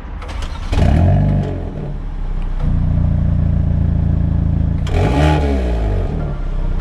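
Hyundai i30N's 2.0-litre turbocharged four-cylinder engine through a full RPM Performance turbo-back exhaust (sport cat downpipe and 3-inch GPF-back system). It is revved up and back down about a second in, runs steadily, then is revved again about five seconds in.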